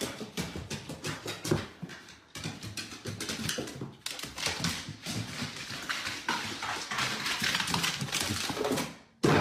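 A dog moving about, with many quick taps and clicks of paws and claws on a hard surface.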